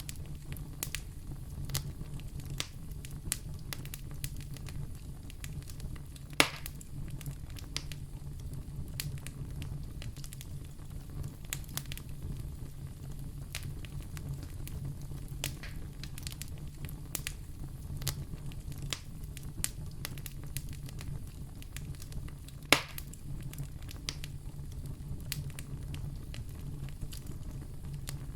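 Wood fire in a fireplace crackling, with frequent small snaps and two louder pops, about six seconds in and near 23 seconds, over a steady low rumble.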